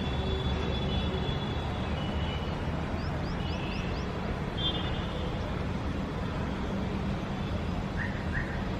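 Steady low rumble of distant city traffic with small birds chirping over it: short high chirps and trills, a quick run of four rising notes about three seconds in, and two brief calls near the end.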